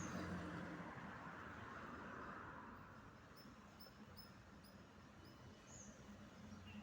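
Near silence: faint background noise with a low hum, and a run of soft, high chirps, about two a second, in the middle.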